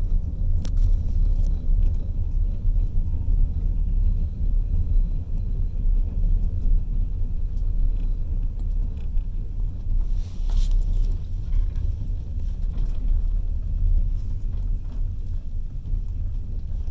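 Passenger train running, heard from an open window: a steady low rumble, with a brief hiss about ten seconds in.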